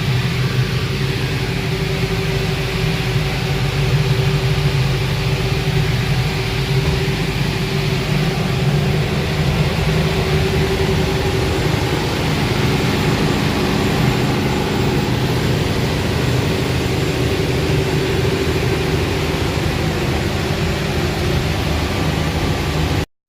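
Diesel engines of a 72-foot Pershing motor yacht running steadily under way, a low engine drone with a steady rush of noise over it.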